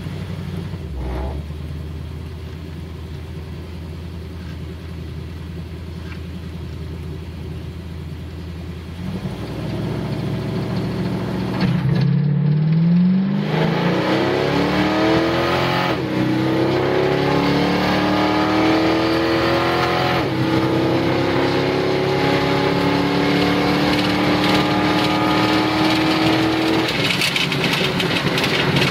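1985 Oldsmobile Cutlass Supreme's 454 big-block V8, heard from inside the cabin on a drag-strip pass. It idles steadily at first, then revs up hard from about ten seconds in and pulls through the gears. The pitch climbs and drops back twice as the Turbo 400 automatic shifts up, then it eases off near the end.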